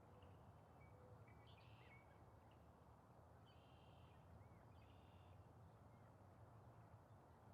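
Near silence: a low steady background rumble, with a few faint, short bird calls in the first five seconds or so.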